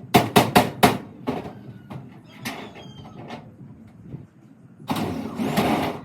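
Four sharp knocks in quick succession, then a few lighter knocks, and about a second of rushing noise near the end.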